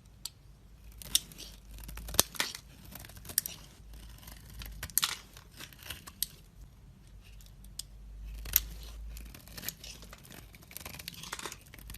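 A knife cutting and carving a bar of soap: irregular crisp cuts and scrapes, with several sharp snaps as pieces break away.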